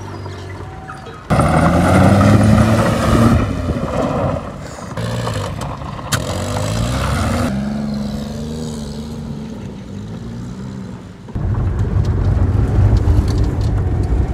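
Maruti 800's small three-cylinder 800 cc petrol engine revving hard in bursts, its pitch rising and falling, while the car is stuck off-road. It jumps loud about a second in and again near the end.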